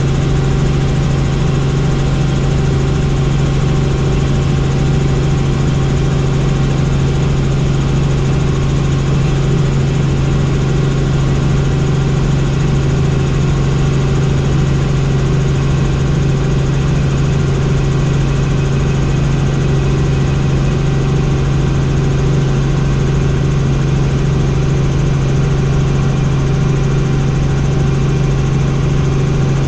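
Helicopter in steady flight: a constant engine and rotor drone with a strong low hum that does not change.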